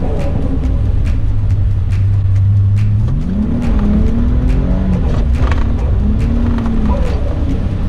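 Toyota Chaser JZX100's turbocharged 1JZ-GTE VVT-i straight-six heard from inside the cabin while drifting, holding a steady engine speed for about three seconds, then revving up and swinging up and down in pitch.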